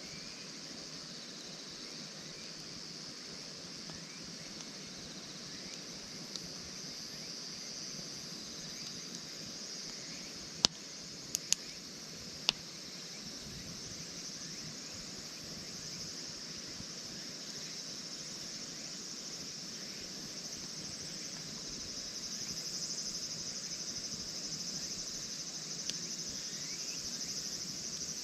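Insects chirring steadily, high-pitched and continuous, with a few sharp pops from the burning campfire wood about halfway through.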